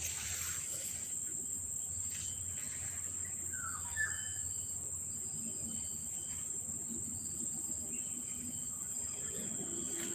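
Insects, crickets by their sound, trilling in a steady, continuous high-pitched chorus, with a brief faint chirp about four seconds in.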